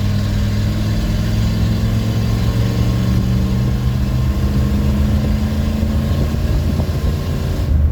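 OBS Ford F-150 engine running steadily at a constant pitch, being run hard to blow out the cobwebs after sitting. About six seconds in, the note turns rougher and less even.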